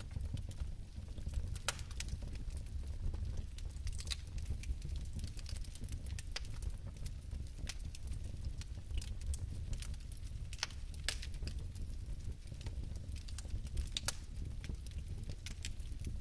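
Fireplace fire burning: a steady low rumble of flame with irregular, scattered sharp crackles and pops.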